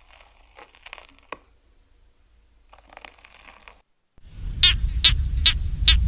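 Faint rustling and crunching crackles, then a louder stretch over a low rumble in which a farm bird gives a quick series of about five short calls.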